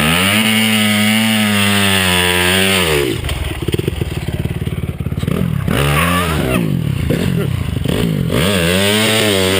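Honda CRF250R's single-cylinder four-stroke engine revved hard for a burnout: held high for about three seconds, falling back to idle, a quick blip about six seconds in, then revving high again near the end.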